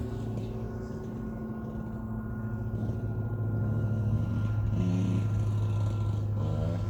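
Motocross bike engine running steadily. It grows louder about four seconds in, with short revs near the end.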